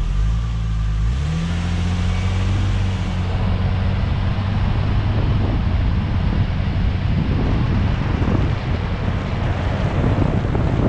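Lexus GS300 on the move, heard at the front wheel: its 2JZ inline-six rises in pitch as the car pulls away in the first second or so, then steady tyre, road and wind noise. A dragging brake is being listened for, and from the front axle it is relatively quiet.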